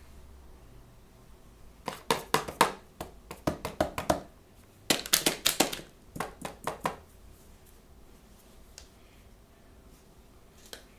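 Hands handling toy blind-bag or box packaging, with a series of sharp crackles and clicks in two busy bursts, then a few single clicks near the end.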